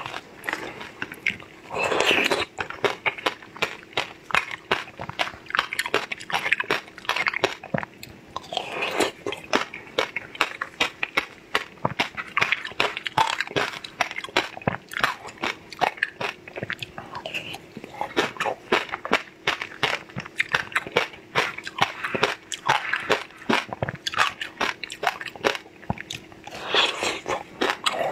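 Close-miked biting and chewing of crunchy food: a dense, continuous run of crisp crunches and crackles, with louder bites about two, nine and twenty-seven seconds in.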